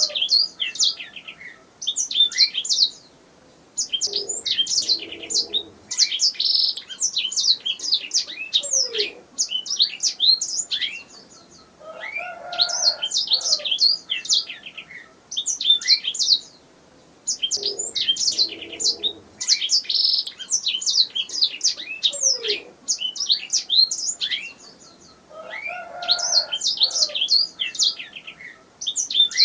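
Domestic canary singing: long phrases of rapid, high trills and chirps broken by short pauses. The same run of phrases comes round again about every 14 seconds, as in a looped recording.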